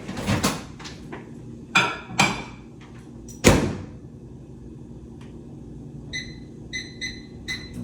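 A few clatters and a loud thump, like a microwave door being shut, then a run of short electronic beeps from the microwave keypad as it is set to melt butter.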